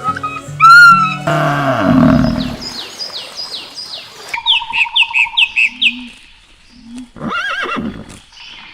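A string of short animal calls. The clearest is a run of quick, falling bird chirps repeated several times from about three to six seconds in, with other calls before and after.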